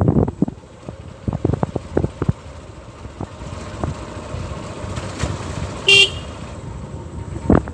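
A single short vehicle horn beep about six seconds in. Under it, wind buffets the microphone in gusts, heaviest in the first couple of seconds.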